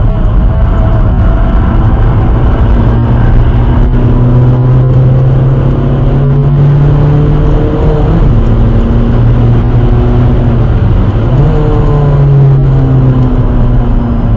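Skoda Fabia vRS's 1.9 TDI diesel engine working hard at track pace, heard from inside the cabin over road and wind noise. The engine note climbs under acceleration and shifts pitch a few times with gear changes and lifts.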